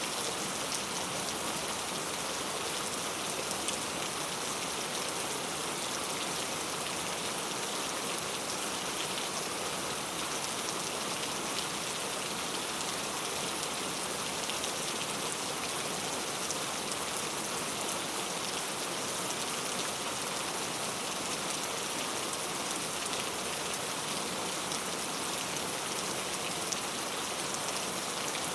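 Heavy rain falling steadily on hard street surfaces, a dense even hiss with many fine drop patters and no let-up.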